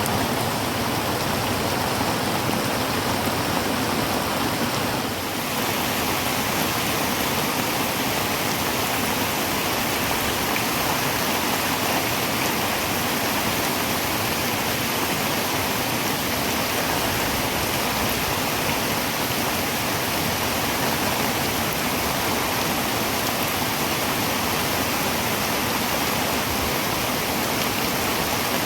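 Heavy rain drumming steadily on a tin roof: a dense, even wash of rain noise, with a slight brief dip about five seconds in.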